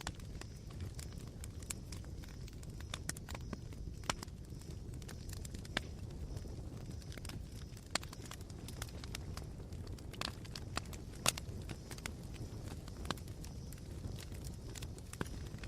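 Campfire of smouldering coals crackling, with irregular sharp pops and snaps over a steady low rumble.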